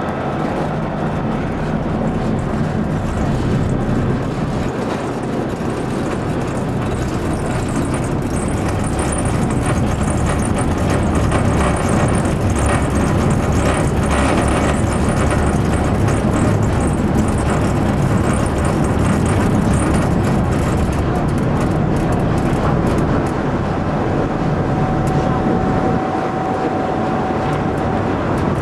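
Ferry underway: a steady, loud rumble with a rushing noise over it, holding even throughout.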